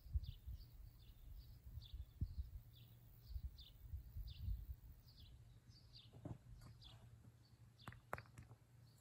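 Faint rural ambience: a bird chirping over and over in quick, short, falling notes, over a low wind rumble on the microphone. A few soft knocks come about six seconds in and again near the end.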